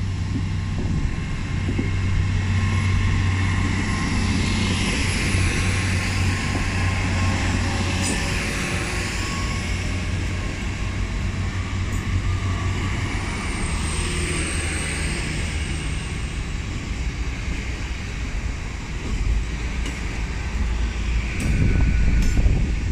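Great Western Railway Hitachi Class 802 bi-mode train running past along the platform and away: a steady low engine hum under the rushing noise of the wheels and carriages.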